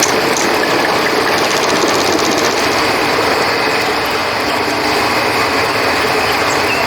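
Steady rush of flowing river water, with crickets chirping in a high, even band over it.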